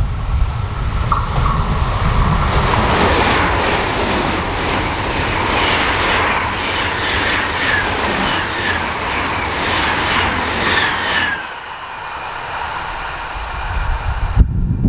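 A train passing close at speed: a steady rushing rumble of wheels on rail, with a run of short, falling high-pitched tones repeating in the second half. The passing noise cuts off suddenly about eleven seconds in as the train clears, and wind buffets the microphone with loud low gusts near the end.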